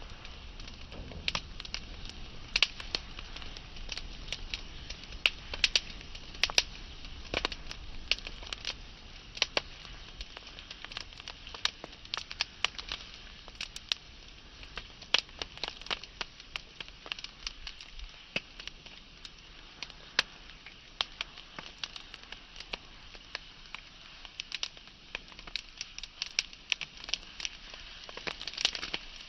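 Burning wood fire crackling: frequent sharp pops and snaps over a soft steady hiss of flame, busiest in the first half and again near the end.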